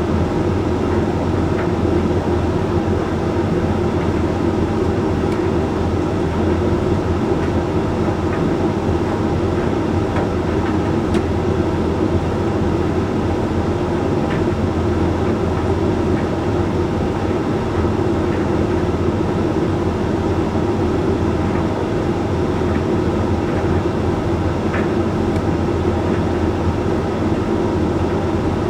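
Hoover Link X Care HLX C10DRGR condenser tumble dryer running mid-cycle: the drum turning and the fan going in a steady, even hum, with a few faint ticks from the load tumbling.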